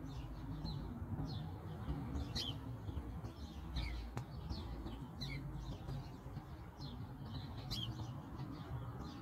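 Small birds chirping outdoors: many short, high chirps, a couple each second, over a steady low background rumble.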